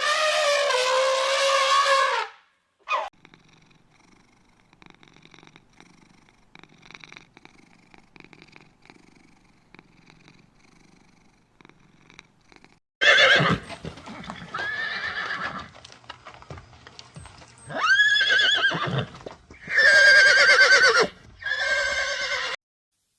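Loud animal calls with a wavering pitch: one call at the start, a faint, quiet stretch, then several more calls one after another in the second half.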